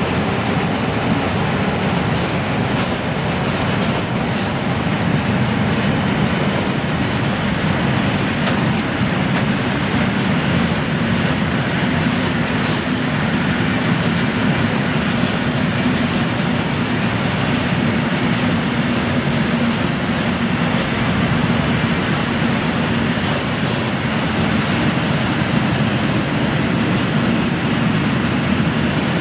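Open-top freight wagons rolling past at a steady speed: a continuous low rumble of steel wheels running on the rails.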